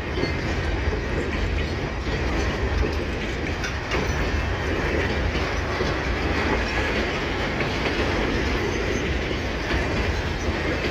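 Freight train of empty grain hopper wagons rolling steadily past, wheels clacking over the rail joints.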